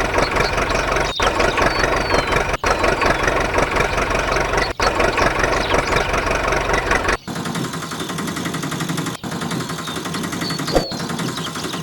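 A motor running steadily in short segments that cut off abruptly every one to two seconds. About seven seconds in, the sound changes to a lighter, thinner running tone.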